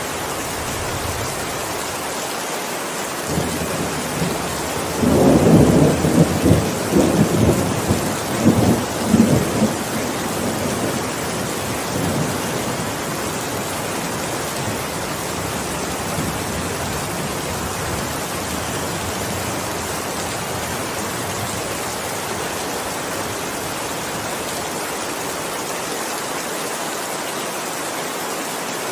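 Heavy, steady rain falling, with a low rumble of thunder rolling through for several seconds about a fifth of the way in.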